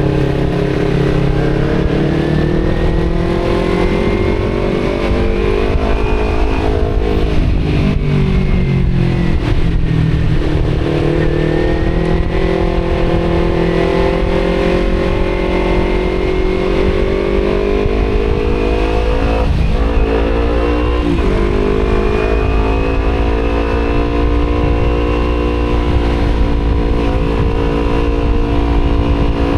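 Kawasaki Z250 parallel-twin engine through an aftermarket Akrapovic exhaust, pulling up through the revs, easing off about seven seconds in, then accelerating again with two quick drops in pitch around twenty seconds in, like gear changes. Steady wind rumble on the microphone underneath.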